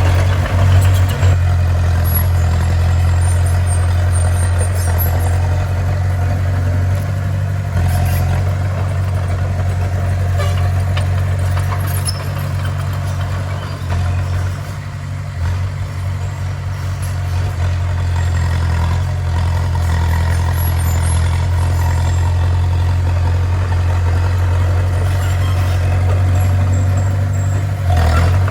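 Heavy diesel engine of a bulldozer running steadily, easing slightly in level about halfway through before picking up again.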